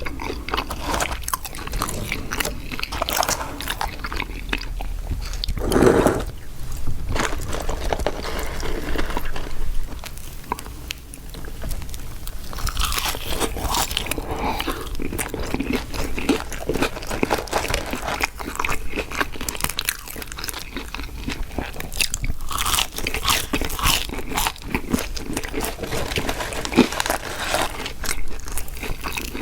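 Close-miked eating of fast food: crunchy bites and chewing, in an irregular, continuous stream of crackly mouth sounds, with one louder burst about six seconds in.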